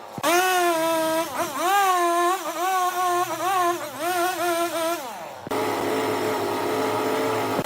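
Large wood lathe running with a steady high whine that dips briefly in pitch again and again as the cutting tool bites the spinning redwood log. About five and a half seconds in, it switches abruptly to a rougher, noisier machine sound.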